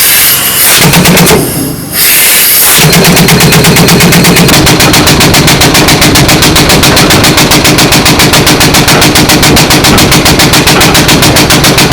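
Pneumatic impact wrench hammering at truck wheel lug nuts: a fast, even rattle over a steady motor hum. There is a short run, a brief pause about two seconds in, then a long continuous run.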